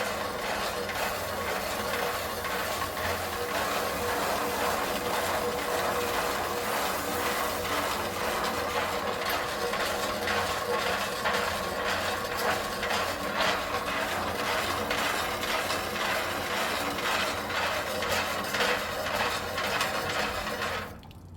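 Electric concrete mixer running, its motor humming steadily while wet concrete and gravel tumble and clatter in the rotating drum. It is switched off and stops suddenly near the end.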